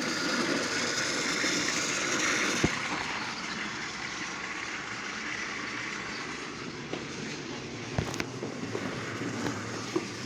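Battery-powered Trackmaster toy trains running on plastic track: a steady whir of small motors and wheels, louder for the first couple of seconds and then a little quieter, with a sharp click a few seconds in and a knock about eight seconds in.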